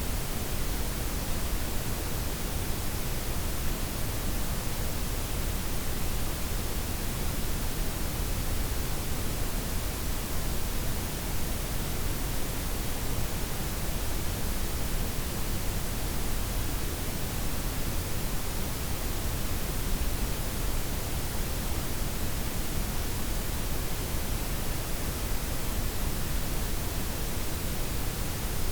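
Steady blend of white, pink and brown noise, a constant hiss with a deep rumble under it, with no changes or events.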